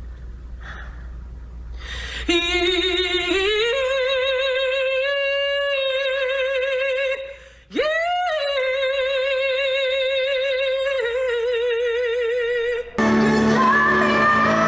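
A single unaccompanied voice sings a long held note that slides up and then wavers with a wide, even vibrato. After a short breath it scoops up and settles into a second long note with the same vibrato. Near the end a recorded song with backing music cuts in.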